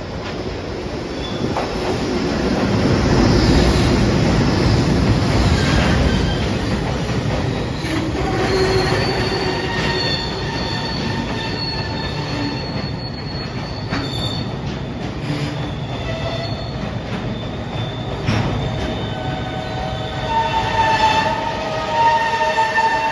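Freight train of Taki 1000 gasoline tank wagons hauled by an electric locomotive rolling past at close range, loudest as the locomotive passes a few seconds in. The wagons' wheels then rumble on with steady high-pitched squeals and a few sharp clicks.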